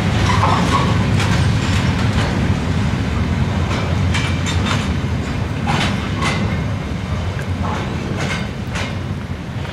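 Train rolling along the track: a steady low rumble with wheels clacking over rail joints, slowly fading.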